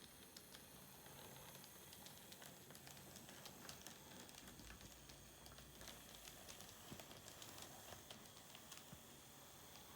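Near silence, with faint light clicks and ticks at irregular spacing.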